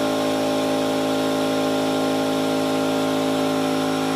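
California Air Tools CAT-4620AC oil-free dual-piston air compressor running steadily, an even motor hum with no change in pitch.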